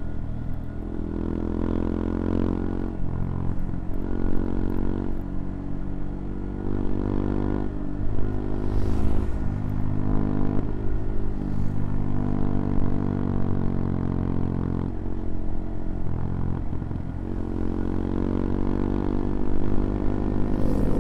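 CFMoto Papio XO-1's small single-cylinder engine running under way, its pitch climbing and then dropping several times as the throttle is worked and gears are changed.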